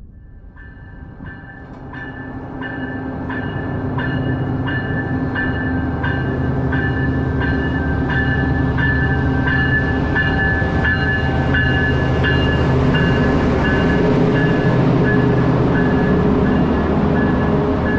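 Siemens Charger diesel-electric locomotive and its passenger train pulling in, the engine and running noise growing louder over the first four seconds and then holding steady. Over it a bell rings about one and a half strokes a second, fading out after about twelve seconds.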